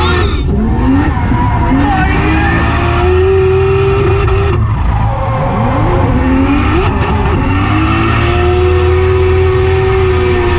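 Built 1JZ turbocharged straight-six in a BMW drift car, heard from inside the cabin, revving hard and held high through a drift run. The revs drop sharply about halfway, then climb and hold near the top again.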